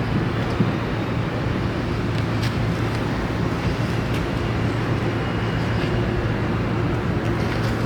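Steady outdoor background rumble with a constant low hum and a few faint ticks.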